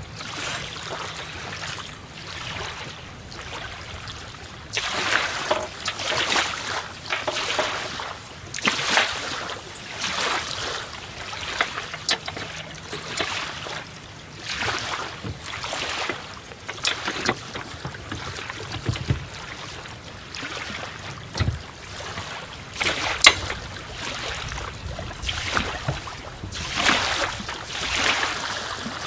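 Water sloshing and lapping in irregular swells every second or two, with a few sharp knocks.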